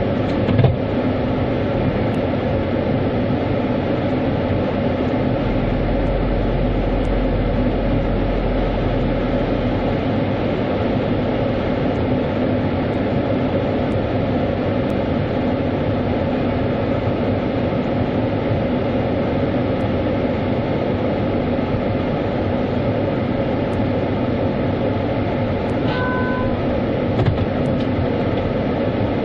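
Automatic car wash running, its machinery and pumps giving a steady hum under a constant wash of spraying water, heard from inside the car. A short two-note falling beep sounds near the end.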